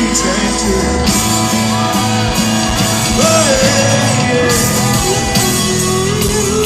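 Live country-rock band playing with singing and some shouting.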